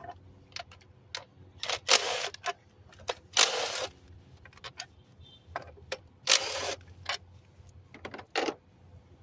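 Ratchet wrench clicking in short spurts, about four of them, as the 10 mm bolts of an engine cover are loosened, with scattered single clicks and taps of the tool between spurts.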